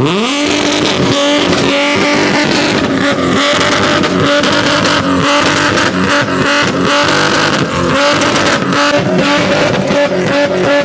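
A car engine revved up sharply, then held at steady high revs for several seconds with a choppy, stuttering edge.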